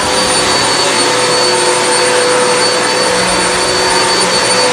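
Hoover WindTunnel High Capacity upright vacuum cleaner running steadily on carpet, its motor giving a constant loud rushing whine.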